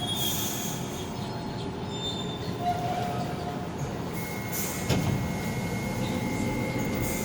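Docklands Light Railway train heard from inside the carriage as it runs into a station: a steady rumble of wheels on track, with a thin high steady squeal held for about the last three seconds.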